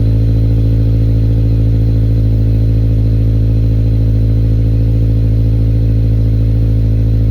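Subaru Forester 2.0i-L's naturally aspirated flat-four idling steadily through a Fox aftermarket exhaust shortly after a cold start. The exhaust note is a deep, even drone that holds a constant pitch, with no revving.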